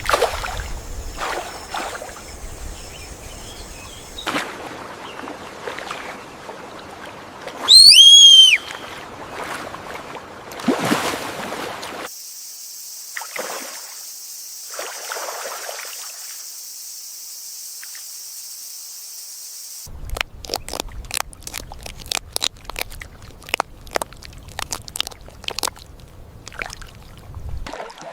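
Natural outdoor sound that changes abruptly in segments: water splashing and trickling, a loud, short, pitched animal call about eight seconds in, a steady high hiss through the middle, and a run of sharp clicks near the end.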